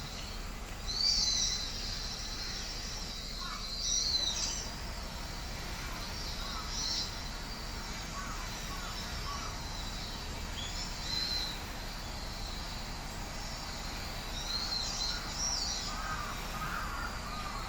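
Wild songbirds calling in the trees: short, sharp high calls every few seconds, the loudest about a second in, with softer, lower twittering toward the end, over a steady low background hum.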